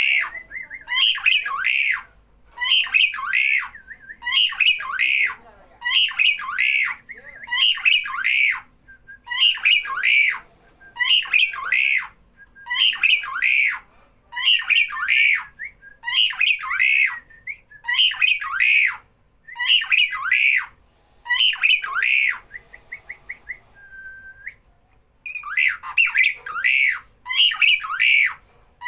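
A starling (jalak) giving loud, harsh squawking calls over and over, about one every second and a half. The calls pause briefly around 23 s, where there are a few faint ticks and one short whistled note, then resume.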